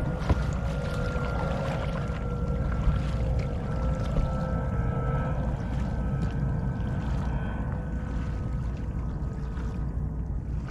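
Kayak paddling in calm water, with wind rumbling on the microphone and a few sharp knocks in the first few seconds. A faint steady hum runs underneath.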